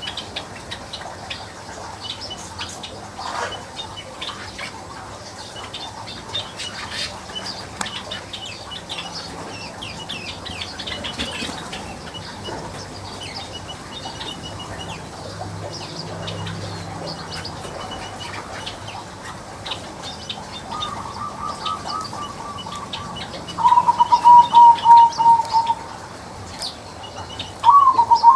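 Weaver birds chirping and chattering, many short high chirps overlapping. Near the end a louder call comes in, a rapid pulsed trill at a lower pitch, heard twice.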